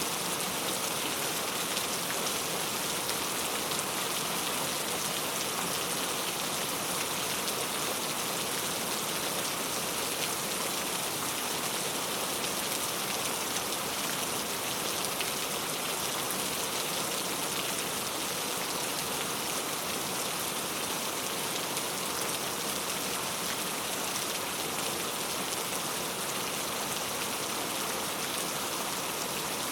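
Steady rain falling, an even hiss of raindrops on a surface with no thunder.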